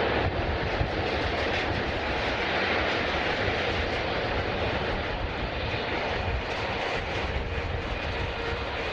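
Jet airliner engine noise, a steady rushing sound with no clear rise or fall.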